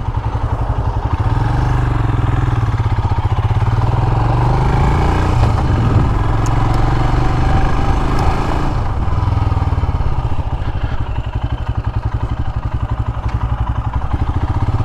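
Royal Enfield Himalayan's 411 cc single-cylinder engine running under way at road speed, a steady low thump. It pulls harder for a few seconds midway, then eases off.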